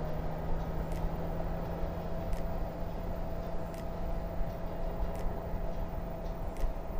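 2018 Honda Gold Wing's flat-six engine and wind noise while cruising at a steady speed, a steady drone that holds an even pitch.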